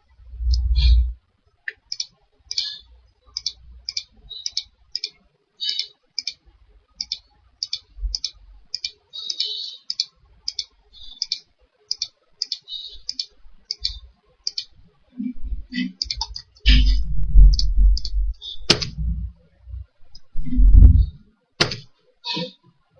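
Steady clicking at a computer, about two short clicks a second, for most of the stretch. Near the end there are louder low thuds and two sharp clicks.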